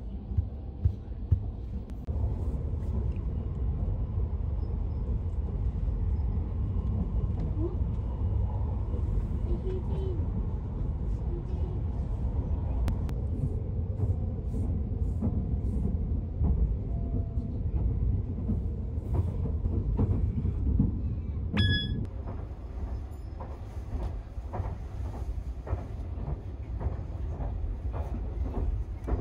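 Sunrise Izumo sleeper train, a 285 series electric train, running, heard from inside the carriage: a steady low rumble with light clicks from the running gear, growing more frequent near the end. About 22 seconds in there is a brief high-pitched squeal.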